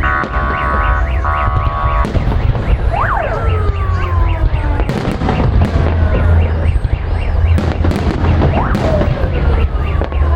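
Fireworks salute going off with many sharp bangs over a continuous low rumble. Over it a car alarm sounds: rapid chirps and a held tone at first, then two long sweeps, each jumping up and then falling slowly, about three seconds and nine seconds in.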